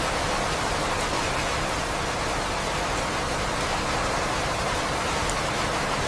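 Steady, even rain noise, a constant hiss with no distinct drops or thunder.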